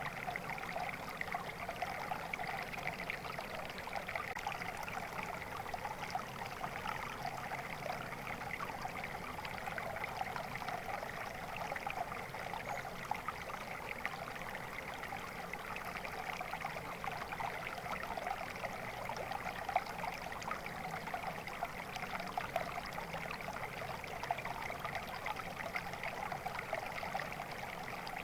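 Water flowing steadily in a stream, with a fine, even babbling and trickling.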